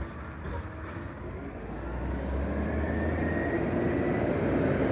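McNeillus ZR automated side-loader garbage truck approaching, its engine rumble growing louder from about two seconds in, with a faint high whine that rises and then falls.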